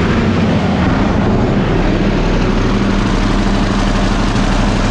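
Large Rolls-Royce turbocharged diesel engine running steadily.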